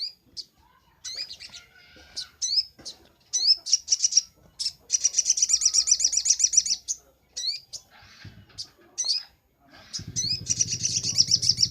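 Sogok ontong (little spiderhunter) singing: sharp, high, rapid chirps broken by two long fast trills, played as a masteran song recording. A low steady hum comes in near the end.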